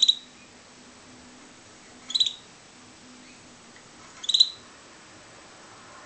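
Pet canary giving short, high chirps, three of them about two seconds apart.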